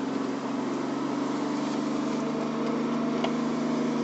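Nissan Cefiro A31's RB25DET turbocharged straight-six engine running steadily at low, even revs, its pitch drifting slightly lower.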